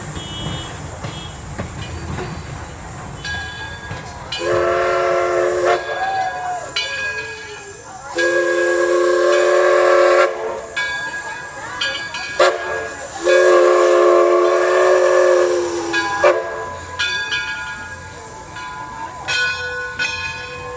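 A locomotive sounds three long blasts of its whistle, each a chord of several notes, the longest about three seconds. Short ringing notes, like a locomotive bell, sound between the blasts.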